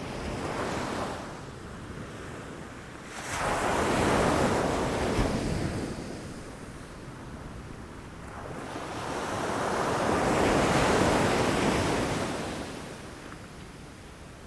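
Ocean waves breaking against rocks. One wave comes in suddenly about three seconds in and washes away, then a second builds more slowly and breaks, swelling and fading again near the end.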